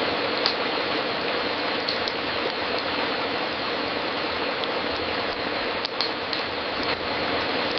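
Wood fire crackling in a fireplace: scattered sharp pops and snaps over a steady hiss.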